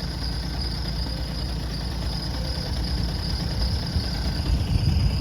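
Steady low rumble of an engine running at idle, growing a little louder about four seconds in, with a faint steady high-pitched whine above it.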